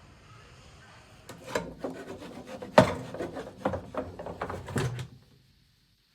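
A run of irregular knocks and scraping on wood, the loudest knock about three seconds in, stopping abruptly.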